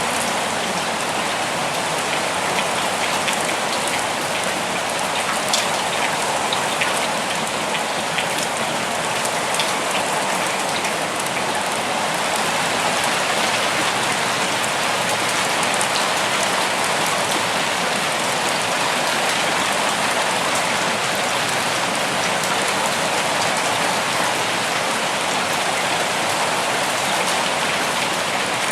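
Steady rain falling, an even hiss with scattered close drop ticks that are densest in the first third.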